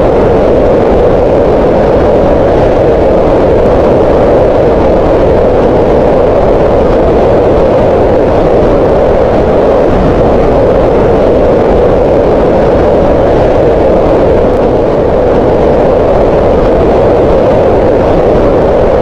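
Green noise: a steady, loud hiss of random noise concentrated in the midrange around 500 Hz, with no change or events.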